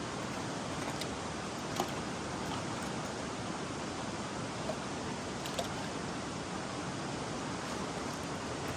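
Steady rushing of river water, with a few faint clicks over it.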